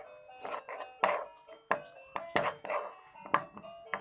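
A stirrer tapping and scraping against a container while stirring white glue and liquid soap into slime: about eight sharp, uneven knocks.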